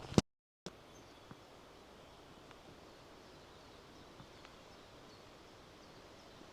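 Footfalls cut off abruptly at an edit. After that, faint steady outdoor background noise with a few faint, brief chirps.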